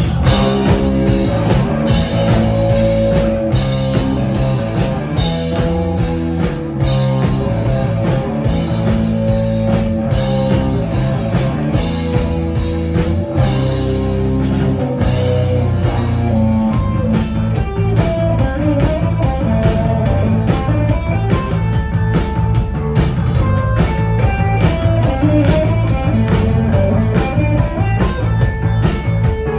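Rock band playing live: an instrumental passage of electric guitar riffing over a steady drum-kit beat, with no vocals.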